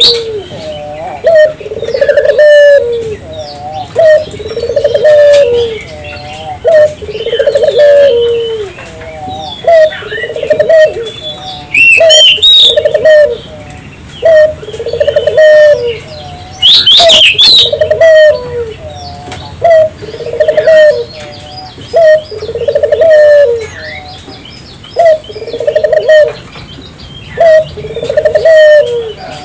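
Barbary dove (burung puter) cooing over and over, one low rolling coo about every two and a half seconds. Small birds chirp briefly now and then.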